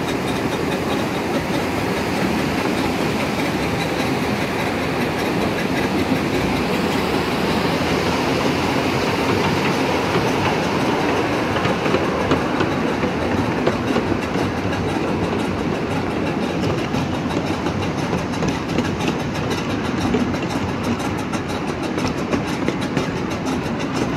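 Miniature amusement-park train running steadily along its track: continuous wheel-on-rail running noise with a clickety-clack of rail joints, heard from aboard the locomotive.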